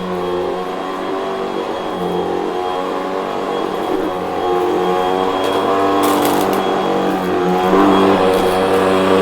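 Vacuum cleaner motor running steadily with a high whine over its hum, its pitch wavering slightly as it works; a brief hiss around six seconds in.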